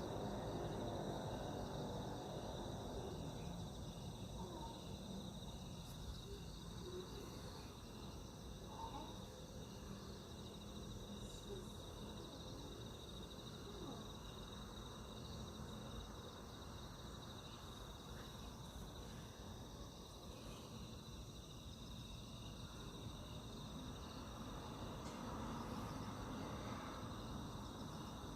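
Crickets chirping in a steady chorus, several high continuous tones, over a faint low background rumble.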